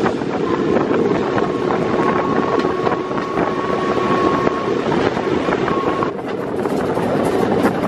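Train carriage running on the rails: a steady rattling rumble, with a thin steady tone from about half a second in until nearly five seconds.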